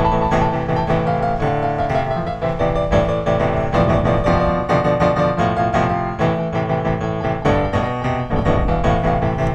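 Background piano music, many notes played in quick succession at a steady loudness.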